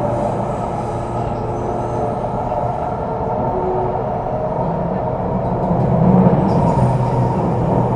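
Interior running noise of an MTR CRRC Changchun EMU motor car between stations: a steady rumble of wheels on track with a steady hum over it, swelling slightly about six seconds in.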